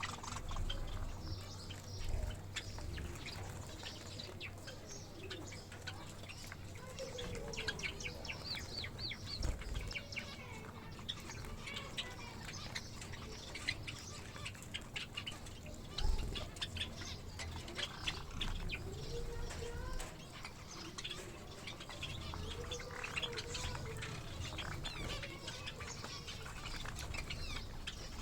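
A flock of small cage birds, Java finches among them, chirping busily throughout in quick short calls, with a few lower, arching calls and wing flaps. There are occasional low knocks, the loudest about two seconds in and again about halfway through.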